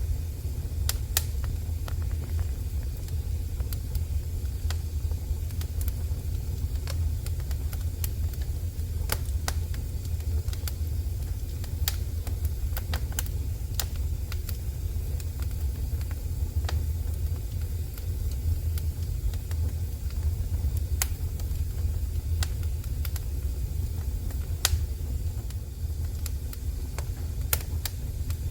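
Wood fire burning in a fireplace: a steady low rumble of the flames with scattered, irregular sharp crackles and pops.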